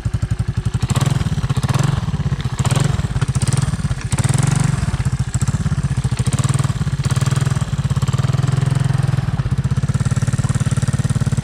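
Honda ATC 200M three-wheeler's air-cooled single-cylinder four-stroke engine running steadily under way, with a few brief rough noises in the first few seconds.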